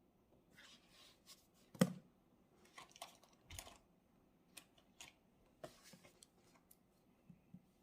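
Quiet desk sounds of someone studying: paper rustling and scattered light clicks, with one sharper knock about two seconds in.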